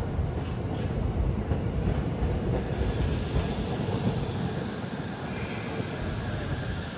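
Hiroshima Electric Railway streetcar running on its rails: a steady low rumble that slowly fades.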